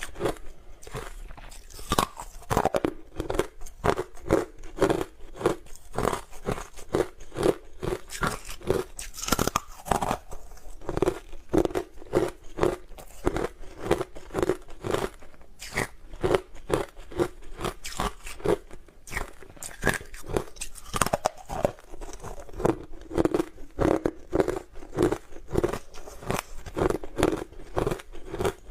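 Close-miked chewing of hard frozen ice: a steady run of crisp crunches, about two to three a second.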